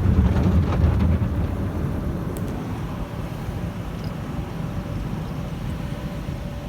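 Automatic car wash machinery working over the car, heard from inside the cabin: a steady low noise of spinning wash brushes and water against the body, louder in the first second and then easing slightly, with a faint steady hum later on.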